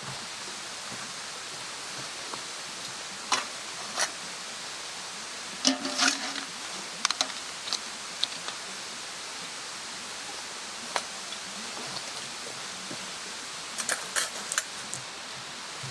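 Wood campfire burning with a steady hiss and scattered sharp pops and crackles, bunched about six seconds in and again near the end.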